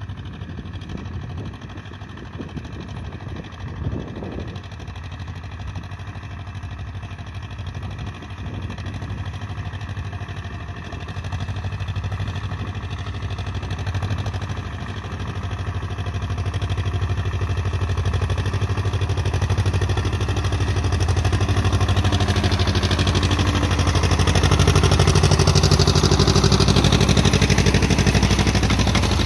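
Ursus C-330M two-cylinder diesel tractor engine with an added turbocharger and its exhaust flap fully open, running steadily under light load pulling a seed drill. It is being run in, so it is held below 1800 rpm. The engine grows louder from about halfway through as the tractor comes nearer.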